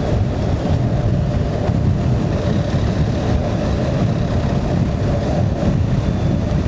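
BMW R 1250 GS Rallye's boxer-twin engine running steadily at road speed, with wind rushing over the microphone.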